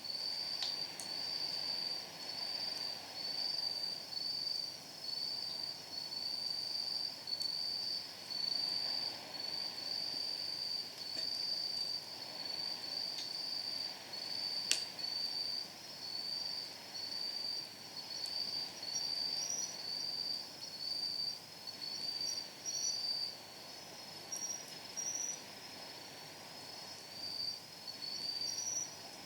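Night insects singing in a high, repeated chirp about once a second, a cricket-like trill that carries through the whole stretch. A few sharp crackles from burning firewood break in, the loudest a single pop about halfway through.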